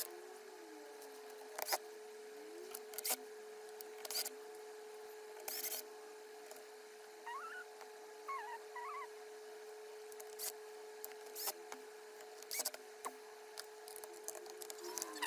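Scattered sharp clicks and knocks of a laptop's plastic parts and screws being handled during disassembly or reassembly, every second or so, over a steady electrical hum.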